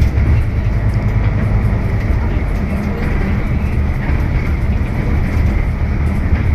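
Scania K320UB hybrid bus running, a steady low rumble of drivetrain and road noise.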